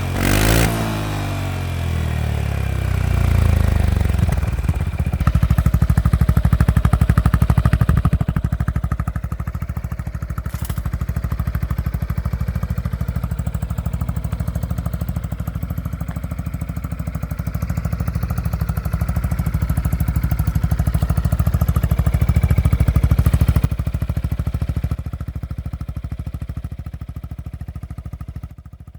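Yamaha XMAX 300 scooter's single-cylinder engine heard through an IXIL aftermarket muffler. It is revved sharply in the first second and again around 3 to 4 seconds in, then runs steadily, the level rising and easing, before it drops off near the end.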